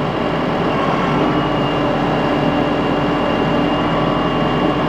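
Large diesel farm tractor's engine running steadily as the tractor is positioned on a trailer, with a thin steady high whine above the engine note.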